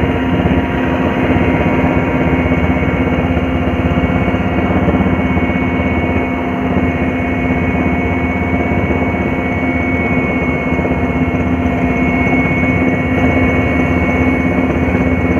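Steady, even motor hum with several held tones, one low and one high.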